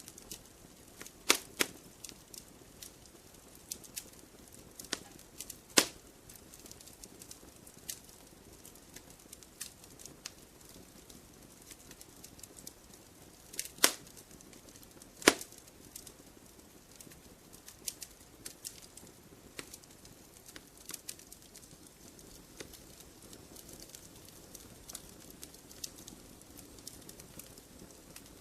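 Wood campfire crackling: a steady scatter of small snaps over a faint hiss of the flames, with a few sharp, louder pops, two close together in the first two seconds, one near six seconds and two around fourteen to fifteen seconds.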